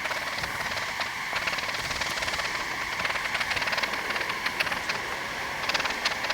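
Honey bees from an open, very strong hive buzzing in a steady hum, with a few light clicks from frames being handled.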